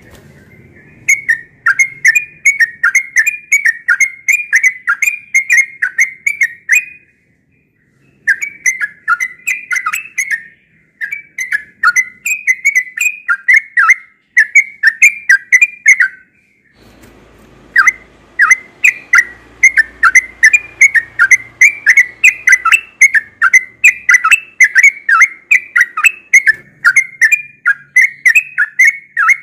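Sooty-headed bulbul (trucukan) singing in long runs of short whistled notes, two or three a second. There are brief pauses about seven and sixteen seconds in.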